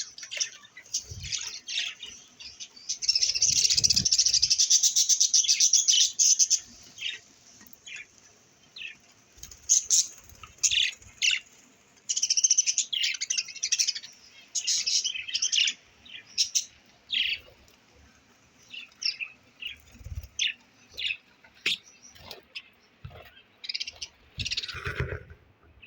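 Budgerigars chirping: many short, high chirps, with a stretch of rapid, continuous chattering warble a few seconds in and another near the middle.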